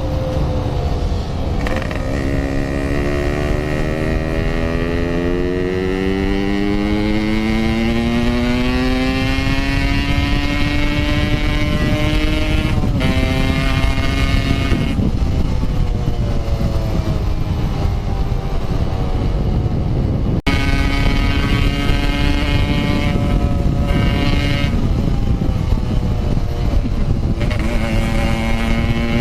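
Motorcycle engine under hard riding, heard from on the bike. Its pitch climbs steadily for about twelve seconds, then drops and jumps at a few gear changes and runs at a steadier speed near the end.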